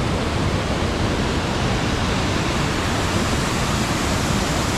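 Waterfall: a loud, steady rush of falling water close by, even and unbroken.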